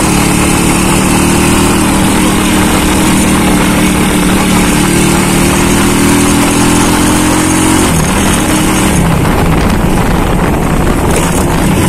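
Yamaha motorcycle engine running steadily under way, heard from the rider's seat. About eight seconds in, the steady engine note breaks up and shifts as the throttle changes.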